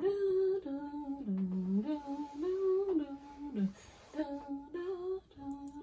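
A person humming a short tune with the mouth closed: a string of held notes that step up and down in pitch, with brief breaks between phrases.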